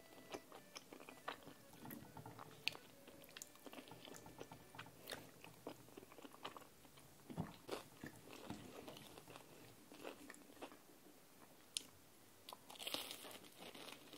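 Faint close-up eating sounds: chewing and wet mouth sounds with many small clicks. Near the end comes a louder crunchy bite into a Korean cheese corn dog's fried coating.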